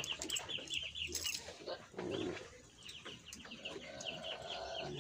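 Small birds chirping in a quick, high-pitched run of short falling notes, several a second, with a few light clicks and rustles in the first second or so as the nylon halter and its metal buckle are handled.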